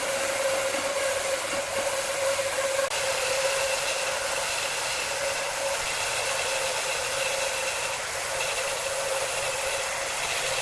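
Giant wood-cutting saw running: a steady whine over a dense hiss, with a higher whine joining about three seconds in.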